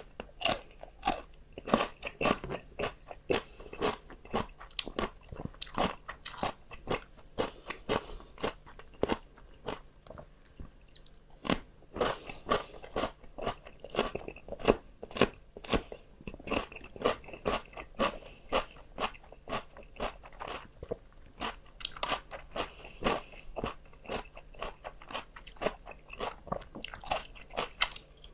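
Close-miked crunching and chewing of fresh raw vegetables: a run of sharp crisp bites and chews, a few each second, easing off briefly midway.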